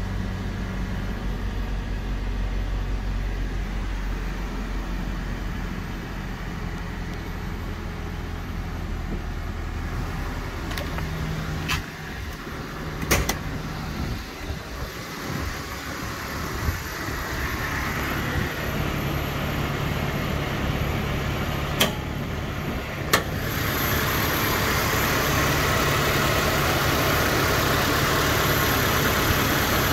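Toyota Hilux's VVT-i four-cylinder petrol engine idling steadily, heard at first as a low hum from inside the cab. Midway there are a few sharp clicks and clunks. From about three-quarters of the way through the idle is louder and brighter, heard from the open engine bay.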